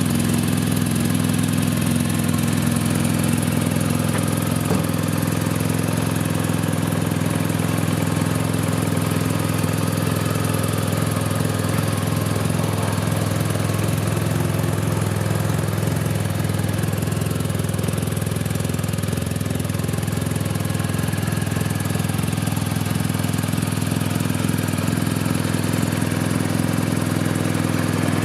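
BMW R1250 RT's boxer twin engine idling steadily, holding an even low pitch with no revving.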